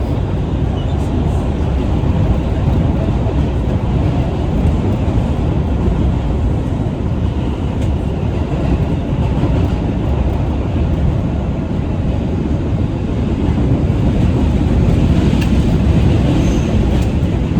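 A New York City subway train, the 2 express, running at speed between stations, heard from inside the car: a loud, steady rumble of wheels on the rails.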